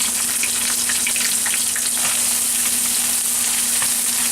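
Sliced bell peppers and garlic sizzling in hot vegetable oil in a wok, a steady hiss, with light clicks and scrapes of the stirring utensil against the wok as they are stir-fried.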